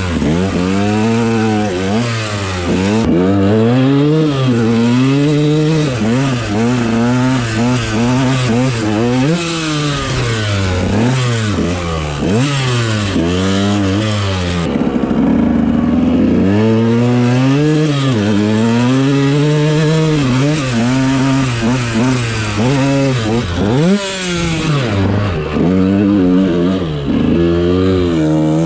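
Dirt bike engine revving up and down over and over as the throttle is opened and closed, with a brief rougher, noisier stretch about halfway through.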